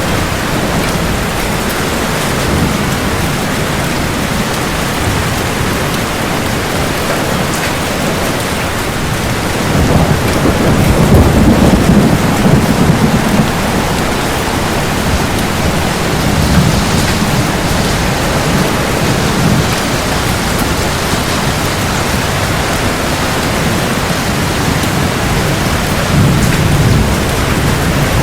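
Steady rain falling, with thunder: a long low rumble starting about ten seconds in and lasting several seconds, then a shorter, weaker rumble near the end.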